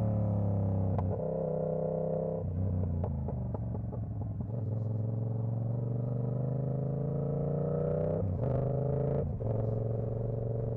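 Yamaha R7's CP2 689 cc parallel-twin engine and exhaust under way. The engine note falls at first, then comes a run of sharp pops. It then pulls up in pitch and drops twice near the end, as the bike shifts up.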